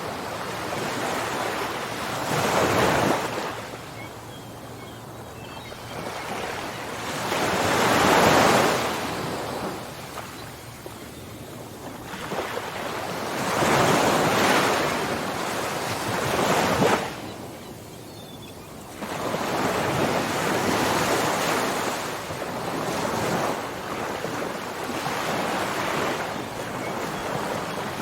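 Ocean waves breaking and washing up on shore. Each surge swells and fades every five or six seconds, and a longer, steadier wash comes in past the midpoint.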